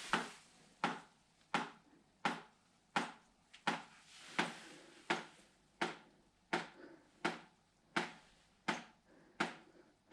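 Water from a ceiling leak dripping steadily into a container, about one drip every 0.7 seconds. With the water supply shut off, the leak has slowed to a regular drip.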